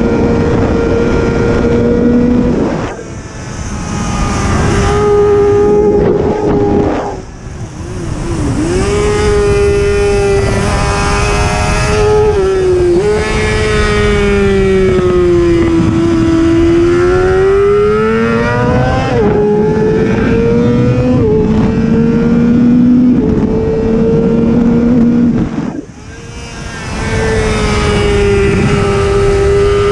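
A racing superbike's engine running hard at high revs on track. Its pitch steps with gear changes and sweeps down and back up through corners. The engine backs off briefly three times, near 3, 7 and 26 seconds, with a rush of wind noise over it.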